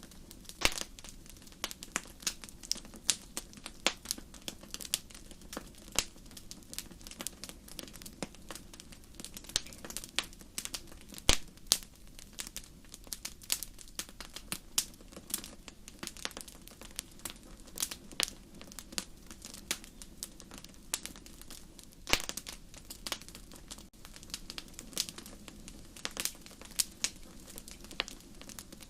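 Wood fire crackling: irregular sharp pops and snaps, several a second, over a soft steady low hiss of the burning. A louder snap comes about eleven seconds in.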